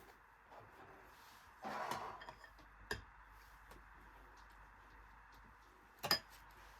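Kitchen handling noises over a steady faint hiss: a short rustling scrape about two seconds in, a sharp click about a second later, and a louder sharp knock or clink near the end.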